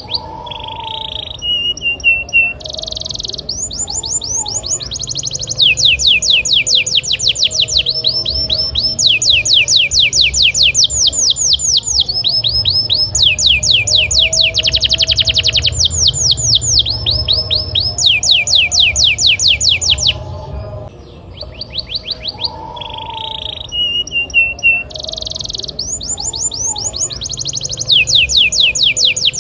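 Canary singing a long, loud song made of fast trills, each phrase a rapid run of repeated falling notes, switching from one trill to the next at different speeds and pitches. The song breaks off briefly about two-thirds of the way through, then starts again.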